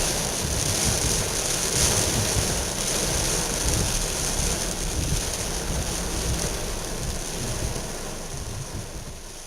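Heavy rain on a car, a steady hiss over a low uneven rumble from the car, fading gradually in the last few seconds.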